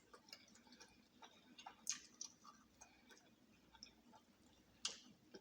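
Faint, close-up mouth sounds of someone eating fried chicken off the bone: scattered soft clicks and smacks, with two louder ones about two seconds in and near the end.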